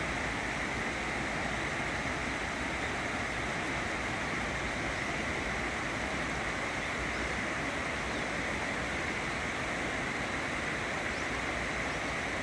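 Steady rush of flowing stream water, an even unbroken sound.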